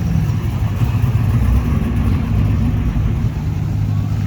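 Car engine running steadily, low-pitched.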